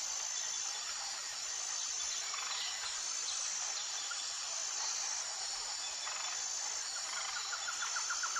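Jungle ambience of insects trilling: a steady high-pitched chorus, joined near the end by a rapid pulsing trill.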